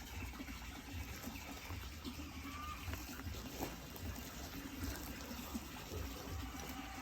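Steady trickling, splashing water.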